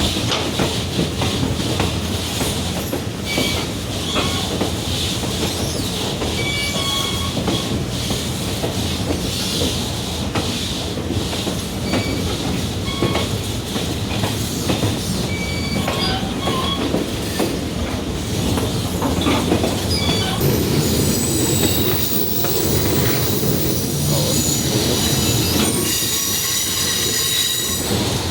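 Passenger train rolling along, heard from aboard: a steady rumble of wheels on rail with clicks over the joints and short high squeaks of the steel wheels against the rails. From about two-thirds of the way in, a sustained high, several-toned wheel squeal joins in, typical of the wheels grinding through a curve.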